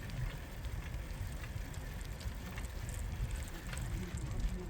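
Bicycle ride ambience: wind rumbling on the microphone while the tyres roll with a steady scatter of light crackles and clicks from the path surface.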